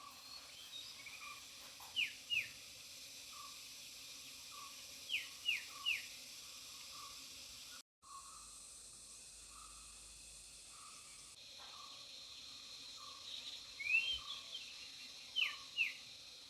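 Birds calling outdoors: short, sharp downward-sliding notes in twos and threes, repeated several times, with a softer repeated lower note under them, over a steady high hiss. The sound cuts out for a moment about halfway through.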